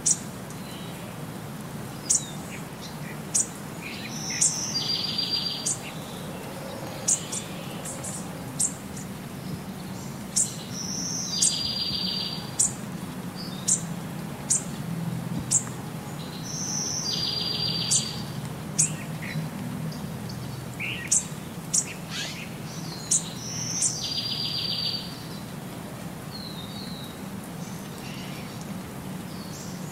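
Birdsong: many short, sharp high chirps and a buzzy trilled phrase repeating about every six seconds, over a low steady hum.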